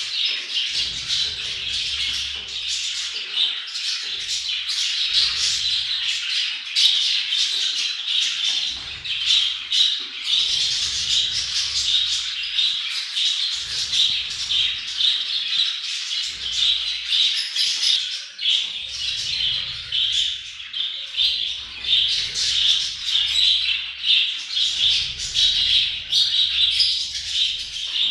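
A flock of budgerigars chattering and warbling without a break, many short rapid calls overlapping. The uploader presents it as budgie mating chatter used to encourage breeding.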